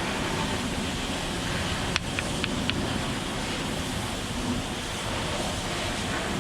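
A paint brush scrubbing a car's wheel rim, over a steady rushing noise, with a few light clicks about two seconds in.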